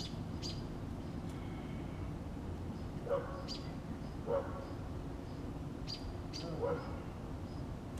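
A dog barking three short times, spaced a second or two apart, with brief high-pitched bird chirps in between over a steady low background hum.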